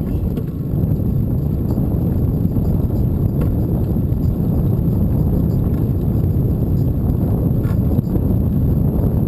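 Wind rushing over the microphone during a bike ride: a loud, steady, low rumble with no engine tone, and a few faint ticks.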